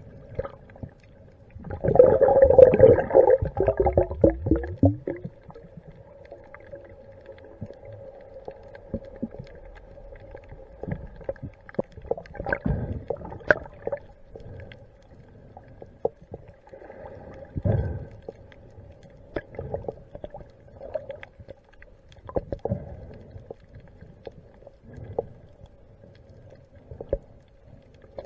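Underwater sound of a sea dive: a loud gurgling rush of bubbles with a falling pitch about two seconds in, then scattered knocks and water rushes over a steady low hum.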